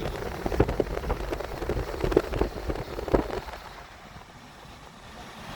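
Pickup rolling over a rough, muddy rural road, with a low rumble and irregular knocks and rattles for the first three seconds or so, then easing off and going quieter.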